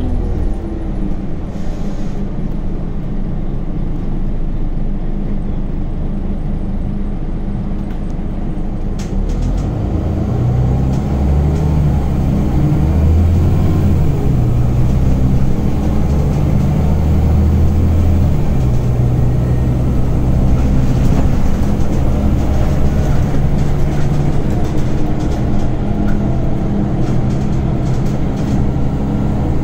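Scania Omnicity CN94UB city bus running, its diesel engine and ZF 6HP Ecomat automatic gearbox heard from inside the passenger cabin. About ten seconds in, the engine drone gets louder and stays up, its low note stepping in pitch as the bus pulls.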